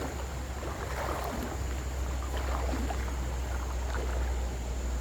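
Creek water sloshing and splashing around a person's legs as he wades through a creek, over a steady low rumble on the phone's built-in microphone.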